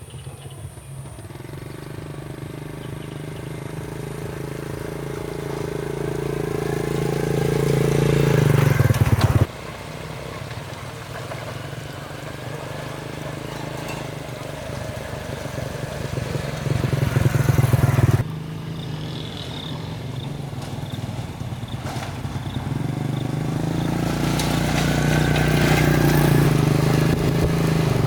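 A motor running steadily, growing louder over several seconds and then cutting off abruptly; this happens twice and starts a third time.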